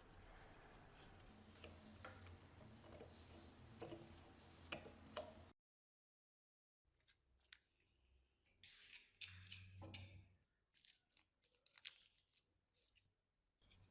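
Faint scattered clicks and short scrapes of hand work on a rusty metal tool, over a low steady hum at first, broken by a moment of dead silence about halfway through.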